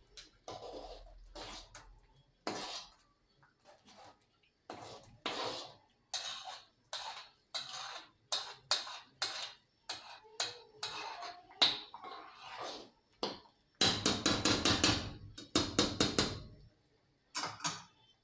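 Clatter and knocks of kitchen containers and dishes being handled and set down, with a fast run of rattling strokes about two-thirds of the way through.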